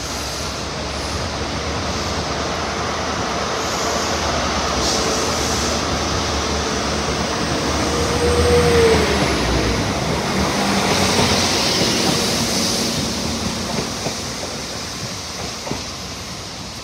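CrossCountry High Speed Train running past on the station tracks: diesel rumble and wheel noise over the pointwork. It grows to its loudest about halfway through, where a tone falls in pitch, then fades.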